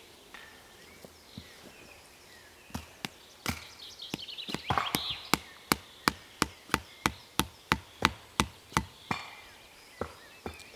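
A hand tool striking wood: a few separate knocks, then a quick, even run of sharp strikes, about three a second, that stops about nine seconds in.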